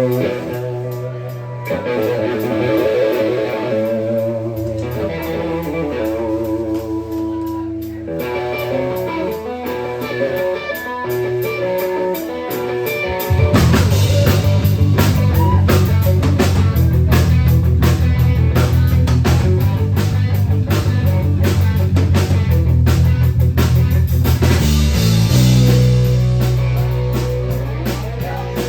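Live band playing a rock/blues song with electric guitar and drums: a lighter guitar-led intro, then the full band with bass and drum kit comes in louder about halfway through.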